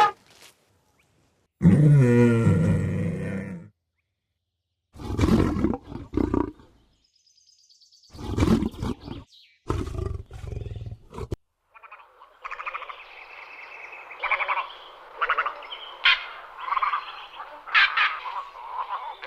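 A sequence of separate animal calls: several short roars, each one to two seconds long with silence between, the first falling in pitch. Then a longer stretch of overlapping noisy calls with sharp cries.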